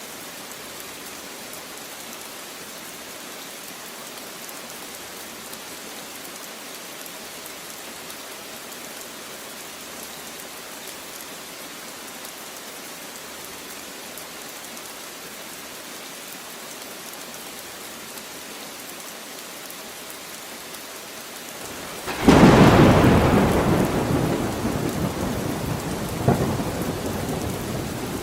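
Steady rain falling, an even hiss, until about three-quarters of the way through, when a loud thunderclap breaks in and rumbles away slowly, with a second smaller crack a few seconds later.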